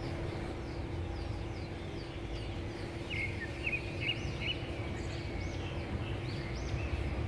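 Small birds chirping in short, quick repeated calls from about three seconds in, over outdoor background rumble and a steady low hum.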